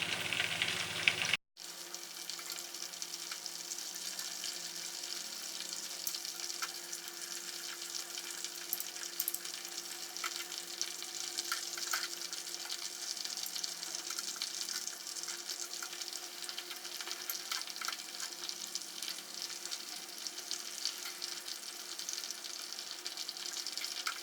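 Skewered spiral-cut potatoes deep-frying in hot oil: a steady sizzle full of fine crackles. The sound drops out briefly about a second and a half in, then carries on evenly.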